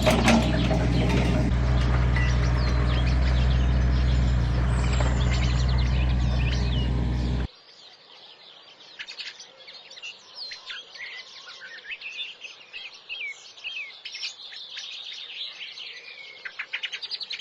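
A machine engine running steadily, with birds chirping over it; about seven seconds in the engine sound cuts off abruptly, leaving birdsong of many short chirps and whistles.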